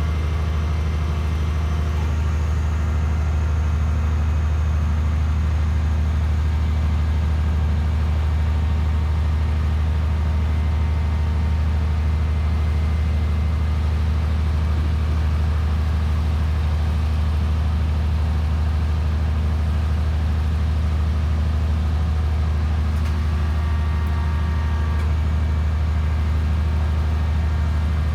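Engine of a hydraulic static pile-driving machine running steadily, a constant low drone with a steady hum above it.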